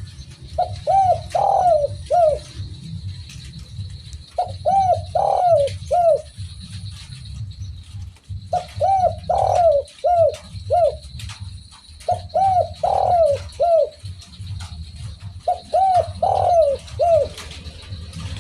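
Spotted dove (derkuku, tekukur) cooing. It gives five phrases of four or five short rising-and-falling coos, the middle coo the loudest and longest, about every four seconds, over a low steady hum.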